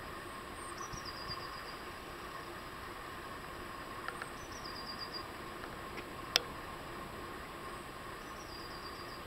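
Faint steady background hum with a small bird's short, high, descending trill heard three times, about every three and a half to four seconds. A single sharp click about six seconds in.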